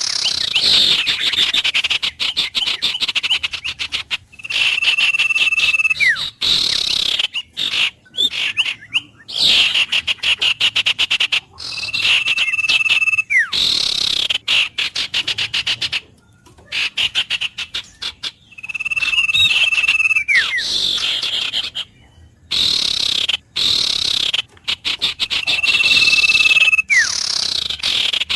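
Wild animal calls: a rapid pulsing call alternating with a held whistled note that ends in a falling slide, the pattern repeating about every seven seconds.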